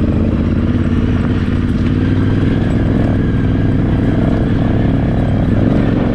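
Yamaha Ténéré 700's parallel-twin engine running at a steady, moderate speed on a trail, with a light clatter from the bike.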